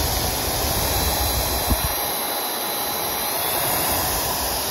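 Handheld cordless air duster and vacuum's fan motor running steadily at speed, a loud rush of air with a faint high whine over it; a single light click about a second and a half in.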